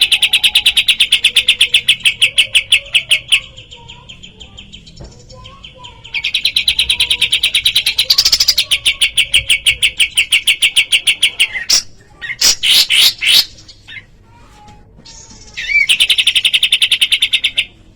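Kapas tembak bulbul singing fast, rattling trills of rapidly repeated notes, about ten a second, in three long runs separated by short pauses, with a few separate sweeping whistled notes midway. Fainter lower bird calls sound underneath.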